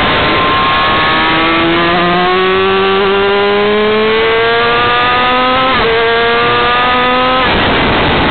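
Yamaha R6's inline-four engine accelerating hard down a straight, its pitch rising steadily. About six seconds in the pitch drops sharply at an upshift and then climbs again. The engine note cuts off near the end as the throttle closes for the next corner, and heavy wind rush runs throughout.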